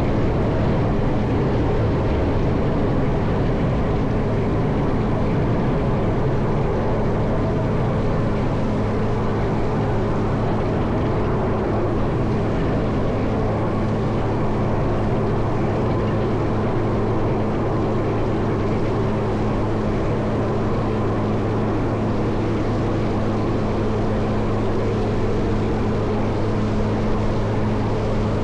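Caterpillar 140M motor grader's diesel engine running steadily as it plows snow, a constant low drone.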